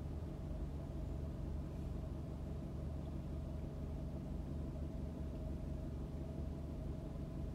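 Car engine idling while stopped, a steady low hum heard from inside the cabin.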